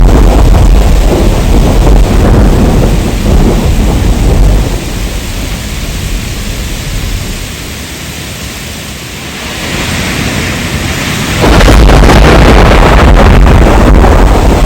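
Heavy rain with deep rolling thunder. The rumble fades away mid-way, leaving a softer rain hiss, then the loud rumble cuts back in abruptly about three-quarters of the way through.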